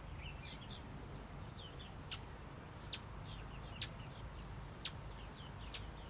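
Faint, high, short chirps from small birds, with sharp clicks about once a second over a low steady background hum.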